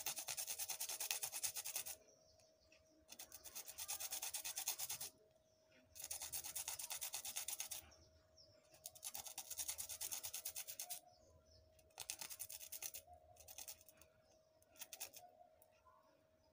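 Rapid rasping strokes on a bitter kola nut, as when it is grated or scraped. The strokes come in bursts of about two seconds with short pauses between, and the bursts grow shorter towards the end.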